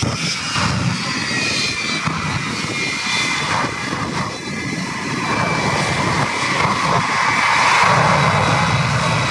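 Aircraft engine noise from an airplane flying over, with a high whine that slides down in pitch during the first couple of seconds as it passes, then a rushing noise that swells a little toward the end.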